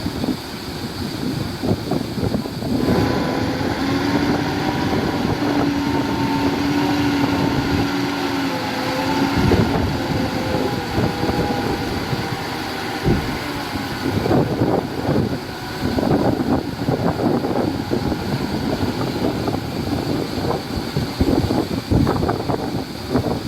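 Heavy earthmoving machinery at work: diesel engines running with irregular knocking and rumbling, and wind buffeting the microphone. A steady pitched drone stands out from about three seconds in until about ten seconds in.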